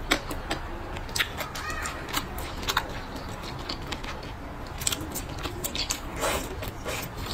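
Close-miked eating sounds: chewing with wet mouth clicks and smacks at irregular intervals.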